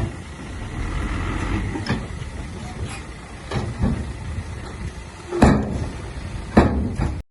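Heavy earthmoving machine's diesel engine running with a low rumble, broken by about half a dozen sharp knocks at irregular intervals, the loudest two near the end. The sound cuts off suddenly at the very end.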